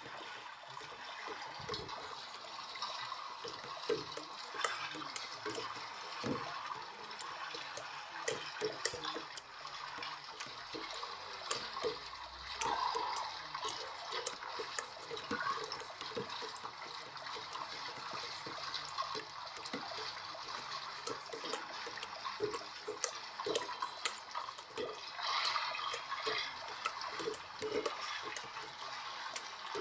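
LG washing machine on its rinse cycle: water running and splashing in the drum, with scattered small clicks and knocks.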